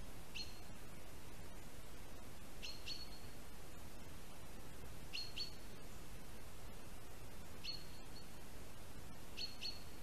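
A bird's short high call, each a sharp note dropping into a brief flat whistle, repeated about every two and a half seconds and sometimes doubled, over a steady hiss.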